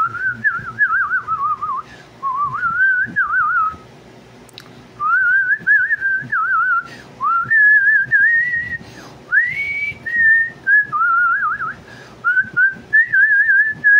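A person whistling a tune in short phrases, the notes warbling with quick trills and separated by brief pauses.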